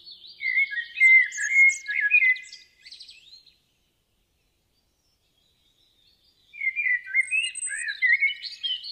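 A songbird singing two bursts of rapid chirping and warbling notes, with a few seconds of silence between them.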